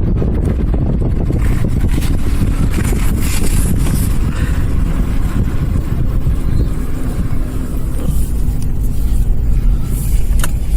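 Car driving along a snow-covered street, heard from inside: a steady low rumble of tyres on packed snow and running engine.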